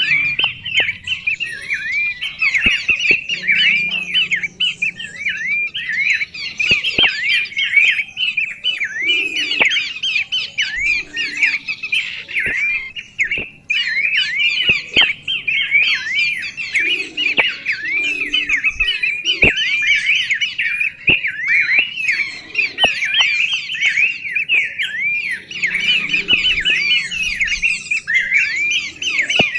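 A songbird singing close up in a continuous fast chatter of sharp, high, repeated notes, about three to four a second, with a few sharp clicks now and then.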